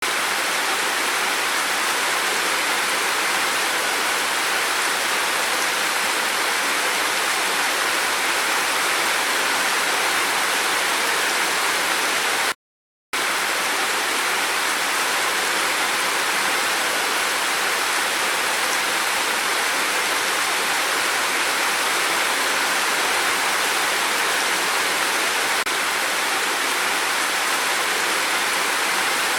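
Steady rain falling hard, an even hiss with no separate drops standing out. It cuts out completely for about half a second around the middle.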